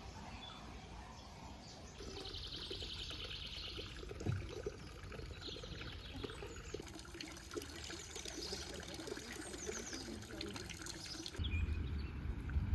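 Outdoor nature ambience: water trickling, with birds singing, including a fast trill about two seconds in. Near the end, wind buffets the microphone.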